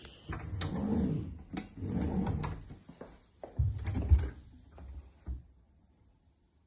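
Kitchen cupboard doors and drawers being opened and shut: a run of sharp clicks and knocks, with a heavier thump about four seconds in.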